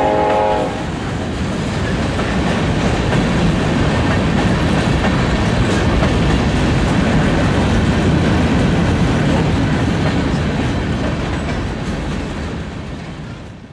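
Freight train cars (covered hoppers and boxcars) rolling past, a steady rumble of wheels on the rails. A train horn sounding at the start breaks off about a second in. The sound fades out near the end.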